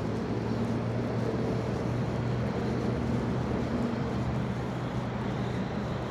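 A steady engine hum, low and even in pitch, over a constant background rush.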